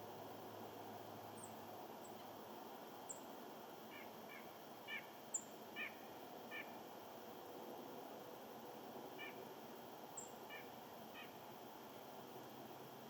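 Small birds calling: short nasal call notes in loose clusters, with thin, high, falling chips every second or two, over a steady faint hiss.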